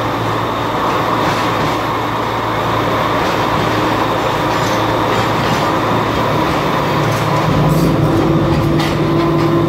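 Passenger train running, heard from on board: a steady rumble of wheels on the track with a droning tone that gets louder about seven seconds in, and a couple of faint clicks near the end.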